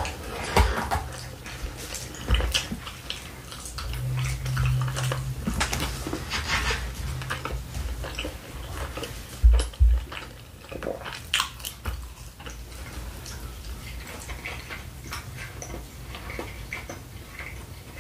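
Close-miked eating sounds: wet chewing and smacking, with a metal fork clicking and scraping on a plate. A couple of deep thumps come about nine and a half seconds in.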